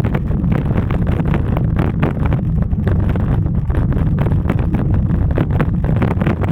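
Wind buffeting the microphone of a camera carried on a moving bicycle: a loud, steady, fluttering rumble with no break.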